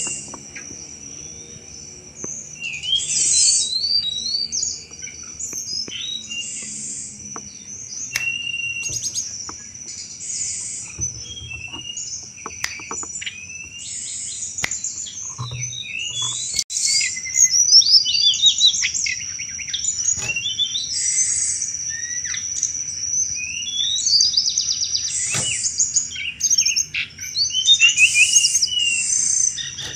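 A tledekan gunung (flycatcher) singing in bursts of fast, high chattering chirps and trills, the 'cetrekan' call, repeated throughout over a steady high whine.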